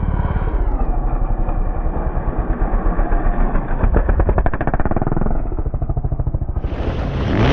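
Yamaha YZ450F single-cylinder four-stroke motocross engine running with a pulsing beat, revved up around the middle and then easing off. A louder rushing noise comes in just before the end.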